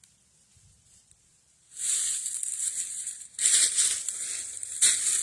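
Footsteps crunching through dry fallen leaves, starting about two seconds in as a few long, rough crunches with short gaps between them.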